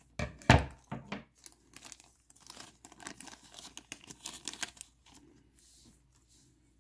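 Plastic bags of miniatures being handled and torn open: a few sharp rips in the first second, then scattered crinkling that dies away after about five seconds.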